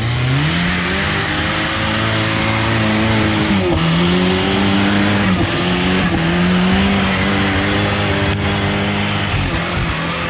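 Rock-crawling rig's engine revving up and held at high revs under load. Its pitch rises in the first second or so, eases off briefly a few times, and drops near the end.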